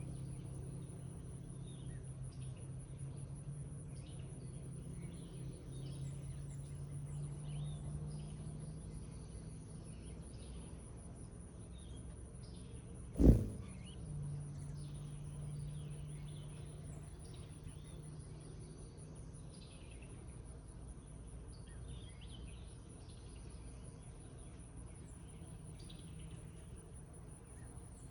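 Outdoor meadow ambience: a steady high-pitched insect trill, like crickets, with scattered short bird chirps over a low steady hum. About thirteen seconds in there is one sharp knock, the loudest sound.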